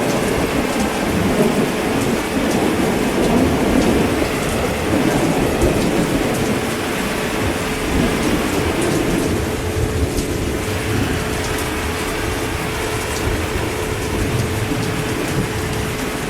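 Heavy steady rain with a low rolling rumble of thunder, strongest in the first few seconds and then easing into the rain. A faint steady tone sits underneath throughout.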